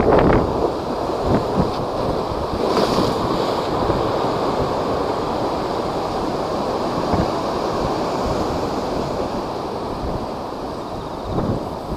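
Typhoon-driven storm waves surging and crashing, with wind buffeting the microphone. A heavy wave hits right at the start, another crashes with a hiss of spray about three seconds in, and a smaller one lands near the end.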